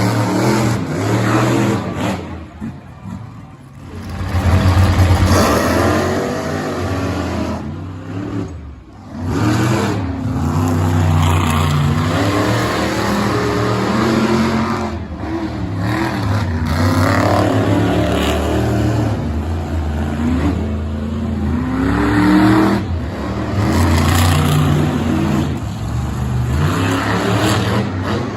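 Monster truck engines running at full throttle, revving up and falling off again and again, with two short drops in level early on where the throttle is lifted or the footage cuts.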